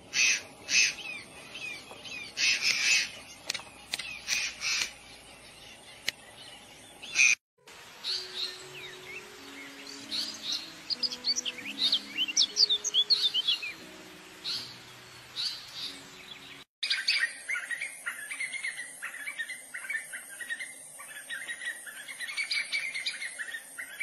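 Small birds chirping and calling in three stretches, separated by two brief dropouts. The middle stretch is a flurry of quick, rapidly gliding chirps. The last is a denser, steadier chatter.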